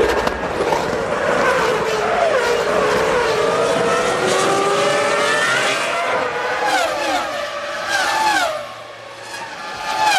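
Several 2001 Formula One cars' 3.0-litre V10 engines revving hard, each one climbing in pitch and dropping back as it shifts up through the gears, with many cars overlapping.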